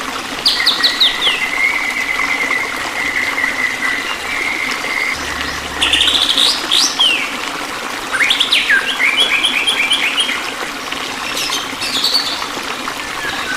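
Songbirds singing over a steady trickle of running water. There are chirps, quick falling notes and rapid trills, with a long held whistle in the first few seconds and bursts of trilled phrases about midway and again later.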